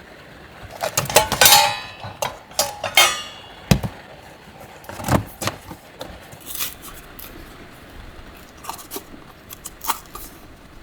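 Clattering and clinking of small hard objects being handled, like dishes or utensils, with two ringing clinks about a second and a half and three seconds in, then lighter taps and knocks.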